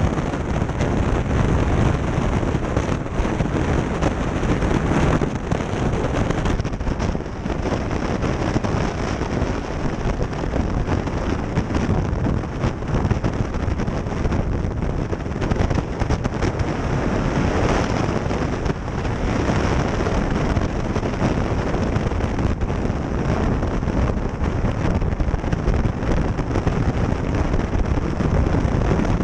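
Steady wind noise buffeting the microphone over the engine and road noise of a motorcycle being ridden at speed.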